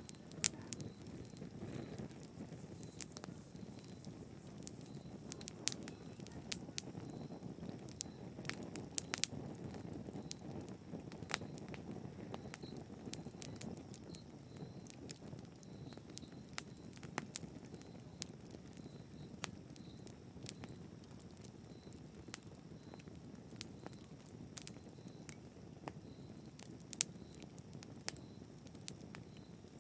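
Wood fire in a fireplace crackling: a steady low rush of flames with frequent irregular sharp pops and snaps.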